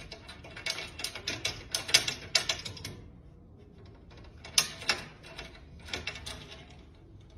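Rapid, irregular clicking and tapping, thick for the first three seconds, then a few sharper clicks about four and a half to six seconds in.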